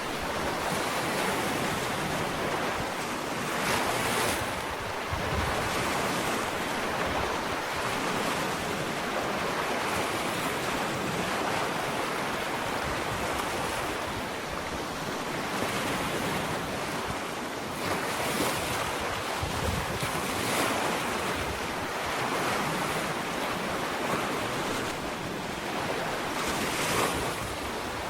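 Ocean waves breaking and washing up a sandy shore, a continuous surf wash that swells every few seconds as each wave comes in.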